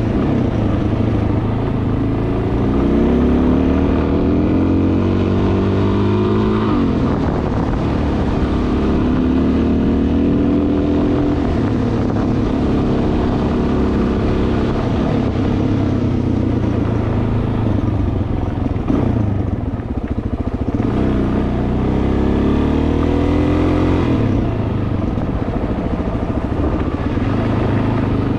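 Dual-sport motorcycle engine running under way, its pitch climbing as it accelerates and dropping back at gear changes, about six seconds in and again later on.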